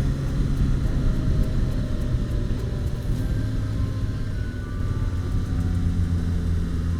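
Motorcycle engine running at low, steady revs on a climb through hairpin bends. The engine note sinks a little around the middle and then picks up again.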